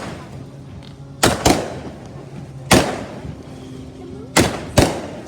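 Consumer fireworks going off: five sharp bangs, a close pair about a second in, a single one near the middle and another close pair near the end, each with a short echoing tail.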